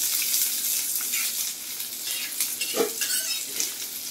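Sliced garlic cloves sizzling in hot oil in an iron tawa as they are stirred, with short scrapes and clicks against the pan.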